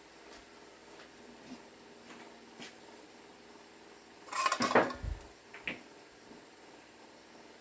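Metal parts or tools knocking together in a short clatter about four and a half seconds in, followed by a dull thud and one more click, with a few faint clicks before.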